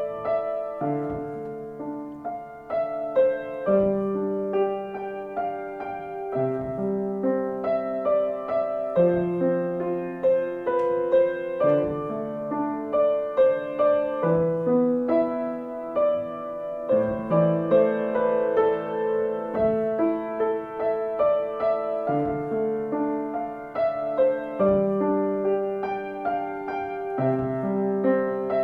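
Gentle solo piano music: a slow, flowing melody over sustained chords.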